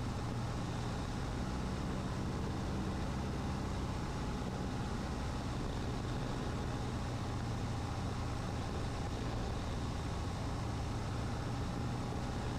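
Cessna 150's Continental O-200 four-cylinder engine droning steadily at reduced power with airflow noise, heard from inside the cockpit on the final approach to landing.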